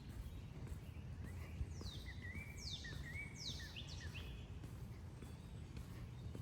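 A songbird singing one short phrase of quick falling notes, about one and a half seconds in, over a steady low rumble of outdoor background noise.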